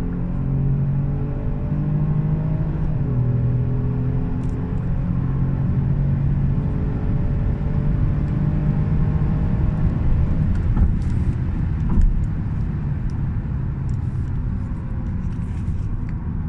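Kia Stinger's 3.3-litre twin-turbo V6 under full-throttle acceleration, its note climbing slowly through a gear and dropping sharply at an upshift about three seconds in before climbing again. In the last third the engine note fades under a steady rush of road and wind noise at high speed.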